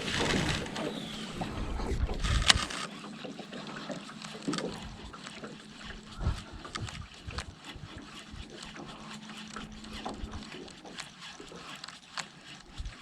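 Sounds aboard a small fishing boat on the water: scattered light clicks and knocks, with one sharper knock about two and a half seconds in, over a faint steady hum that stops about ten seconds in.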